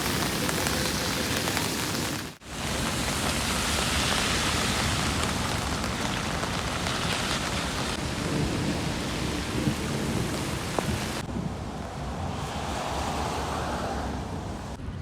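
Heavy rain pouring steadily as a dense hiss, with a brief dropout about two seconds in and the sound turning duller about eleven seconds in.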